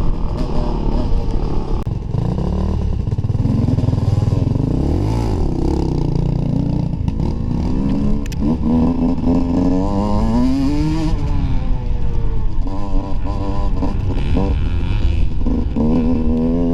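Dirt bike engine running hard, its pitch climbing and dropping again and again as the throttle opens and closes.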